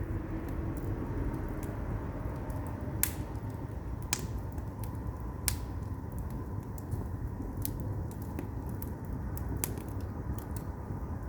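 Split firewood burning in an agungi (traditional Korean fire hole): a steady low rumble of the fire with scattered crackles and sharp pops, the three loudest pops coming about three, four and five and a half seconds in.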